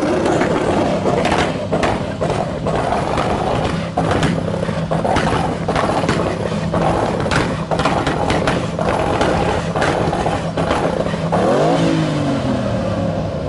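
Vehicle engine running at a steady pitch amid clattering and scraping noise, then revving up with a rising pitch near the end.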